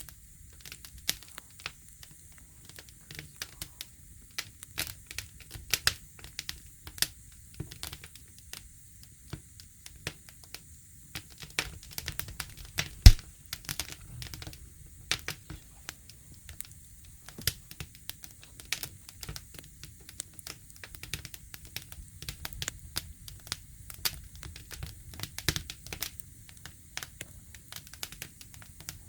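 Wood fire burning with a low rumble and irregular sharp crackles and pops throughout, one louder pop about 13 seconds in.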